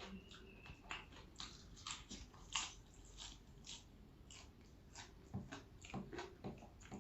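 A person biting and chewing crunchy food close to the microphone: a string of short, irregular crunches and clicks, about two a second.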